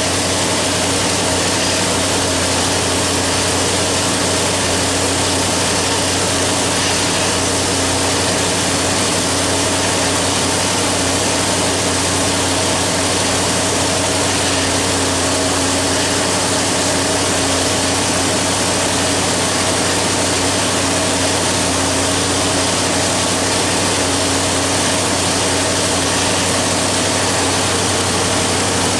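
Cobra's engine running at a steady speed on a chassis dyno: a loud, constant drone that holds one pitch throughout, with a heavy hiss of rushing air over it.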